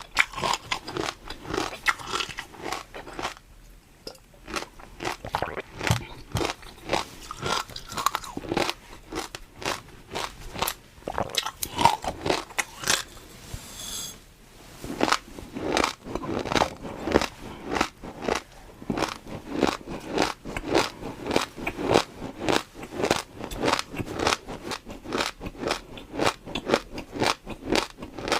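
Close-miked eating: a steady run of crisp crunching bites and chewing, several per second, with a short pause a few seconds in.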